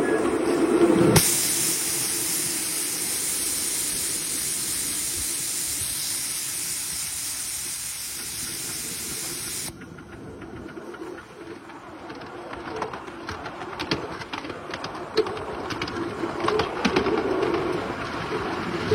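A loud, steady hiss starts about a second in, lasts roughly eight seconds and cuts off suddenly. Quieter rumbling with scattered clicks follows.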